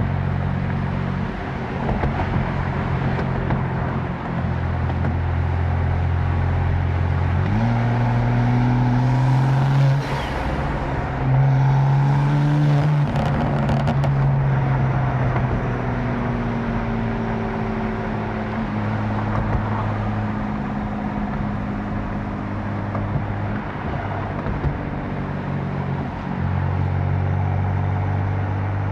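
Tuned 750 hp BMW M4's engine running under way. Its pitch steps up and down several times as the car shifts gears and comes on and off the throttle, with a few longer rising and falling sweeps, heard from inside the cabin with the windows down.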